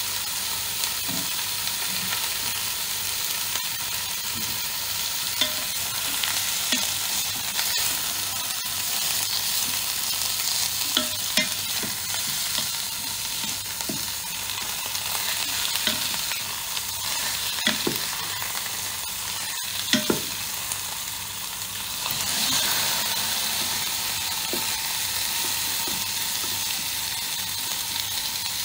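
Pork trotters sizzling in a Ninja Foodi multicooker's inner pot as a wooden spatula turns them, with short knocks and scrapes of the spatula against the pot now and then.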